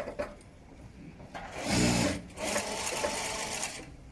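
Industrial sewing machine stitching in short runs: a click at the start, a quiet second, then a loud burst of stitching about halfway through followed by a longer, quieter stretch of sewing.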